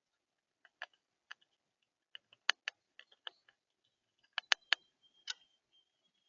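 Sharp, irregular clicks and taps of birds pecking at seed on a feeder, a dozen or so, loudest in a quick cluster about four and a half seconds in. A thin, steady high whistle starts just after them and carries on to the end.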